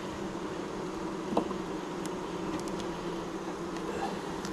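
Honeybees buzzing around an open hive, a steady drone, with a single light knock about a second and a half in.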